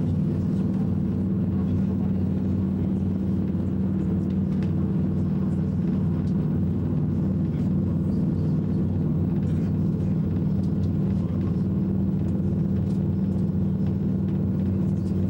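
ICE high-speed train running at speed: a steady low rumble with a hum of several steady tones underneath.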